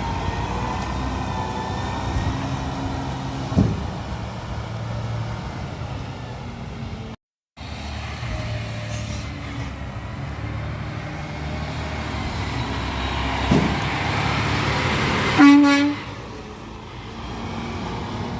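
Peterbilt 520 garbage truck running steadily, with a short horn toot about fifteen seconds in that is the loudest sound. The sound cuts out completely for a moment about seven seconds in.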